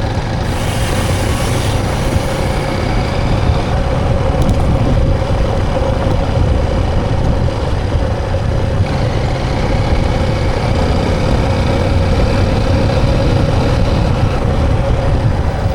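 A motor vehicle's engine running steadily under a continuous low rumble.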